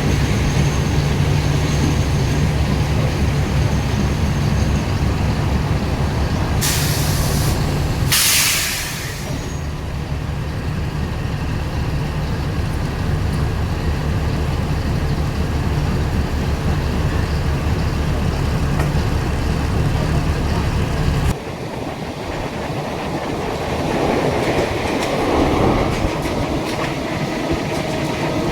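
A train running, heard from on board: a steady low rumble with rattling. Two short bursts of hiss come about 7 and 9 seconds in, and the low rumble drops off suddenly about 21 seconds in.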